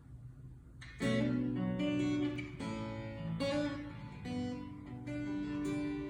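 Acoustic guitar strumming slow, ringing chords as a song's intro, starting about a second in, with a fresh strum roughly every 0.8 s.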